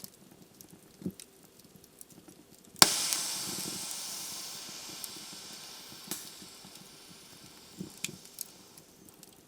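Wood fire in a fireplace crackling with sparse small snaps. About three seconds in a log gives one loud pop, followed by a hiss that slowly fades away over several seconds.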